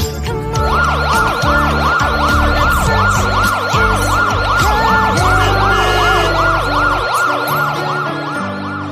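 Police siren in a fast yelp, its pitch sweeping up and down about three to four times a second, starting about half a second in, over background music that drops out near the end.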